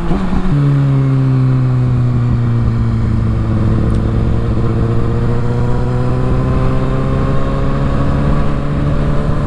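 Kawasaki ZX-6R inline-four engine through a Yoshimura exhaust, shifting up about half a second in, then pulling with its note climbing slowly as the bike accelerates. Wind noise on the rider's microphone rumbles underneath.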